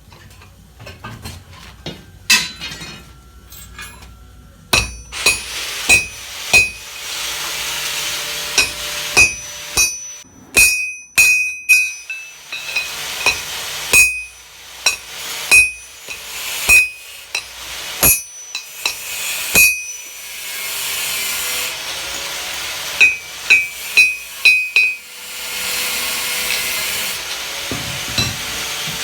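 Hammer blows on hot iron against an anvil, coming in quick irregular runs, each strike ringing at the same pitch. A steady hiss fills several of the pauses between runs of blows.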